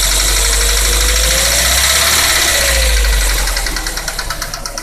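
Daewoo Nexia's GM 8-valve engine running, its note rising and falling once. After it drops back about three seconds in, a rapid, even ticking knock from the valvetrain comes through plainly. The knock sounds the same cold or hot, and is traced to a worn rocker arm on the fourth cylinder, the hydraulic lifters having already been replaced.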